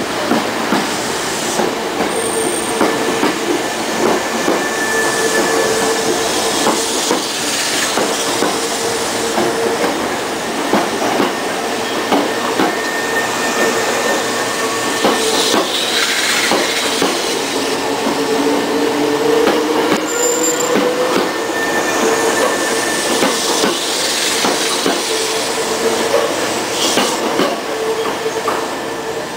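Hankyu electric commuter train running slowly, its wheels clattering over rail joints and points, with a steady whine over the rattle.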